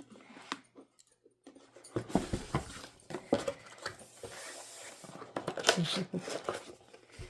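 Packaging rustling and small items being handled and set down, with several sharp knocks about two seconds in and another near the end.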